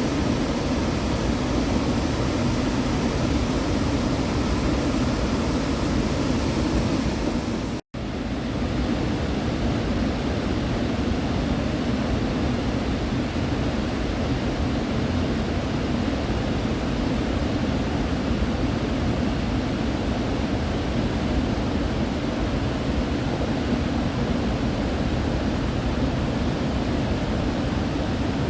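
Steady rushing roar of a waterfall. The sound drops out for an instant about eight seconds in.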